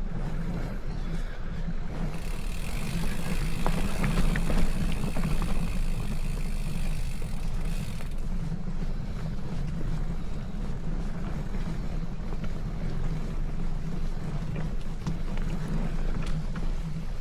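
Wind buffeting the microphone while riding a bicycle, a steady low rumble. From about two seconds in, a hiss swells over it for some six seconds and then fades.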